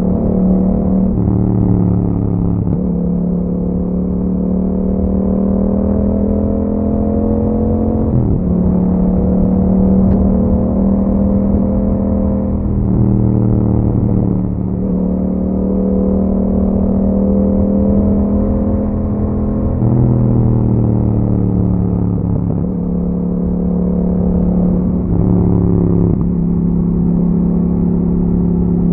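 2021 Yamaha MT-07's 689 cc parallel-twin engine, fitted with an Akrapovic exhaust and dB killer, running under way. The note climbs and dips with the throttle, with several sudden pitch changes at gear shifts.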